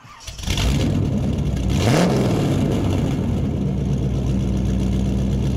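LS V8 engine of a Volvo 240 wagon revving up about two seconds in, then running steadily.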